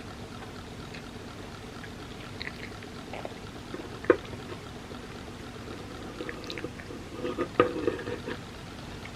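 Close-up eating sounds of crepe cake: one sharp clink, likely a utensil on the plate, about four seconds in, then a cluster of small clicks and moist mouth sounds near the end, over a steady low hum.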